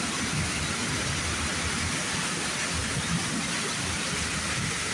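Petit in-bay automatic car wash running: a steady hiss of water spray over a low machine rumble.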